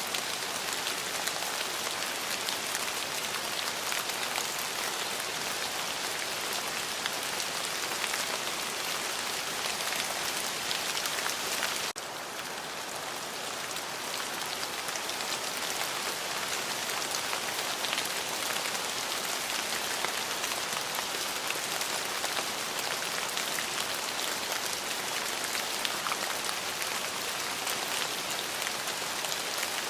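Steady rain pattering on a surface, an even hiss dotted with many small drop ticks. The sound briefly dips about twelve seconds in, then comes back to full strength.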